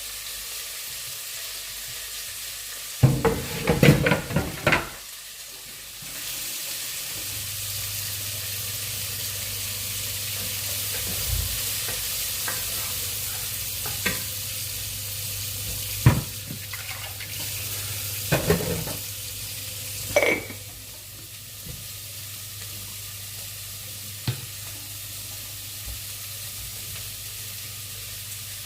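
Oil sizzling steadily in a frying pan as food fries, with a utensil stirring and knocking against the pan in short clusters about three seconds in and again a few times in the second half.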